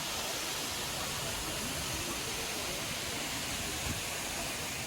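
Steady rush of water falling down a man-made waterfall.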